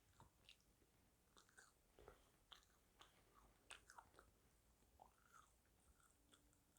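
Faint close-up chewing: irregular small wet clicks and smacks of a mouth working on food.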